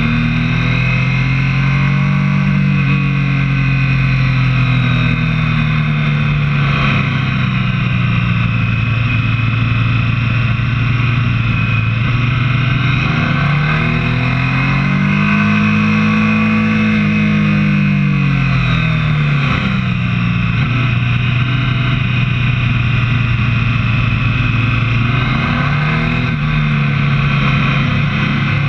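Motorcycle engine running as the bike rides along, its pitch rising and falling with the throttle, most clearly climbing and then dropping back about halfway through. A steady rushing noise lies underneath.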